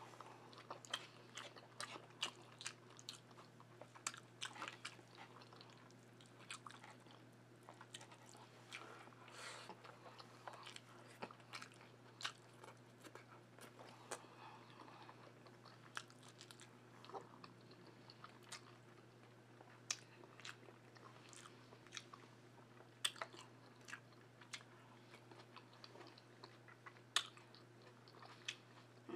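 Close-miked eating: soft, wet chewing and lip-smacking clicks as a mouthful of rice, ackee, callaloo and saltfish is chewed. A faint steady low hum runs underneath.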